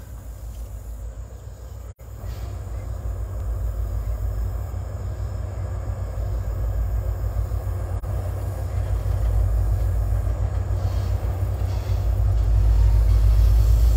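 An approaching CSX train's diesel locomotives heard at a distance: a low rumble that grows steadily louder as the train draws near.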